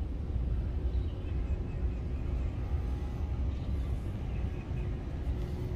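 Outdoor ambience: a steady low rumble, such as wind on the microphone or distant surf and traffic, with faint background sounds over it.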